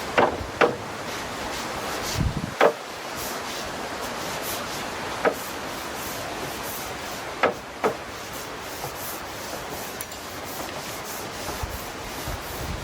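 Oil brush rubbing in strokes across larch wood planks, a steady scratchy swishing, with several sharp short taps scattered through.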